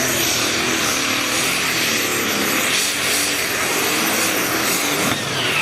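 Pulling machine's engine running hard at full power, a loud continuous engine noise with a thin high whine over it; the sound shifts abruptly about five seconds in.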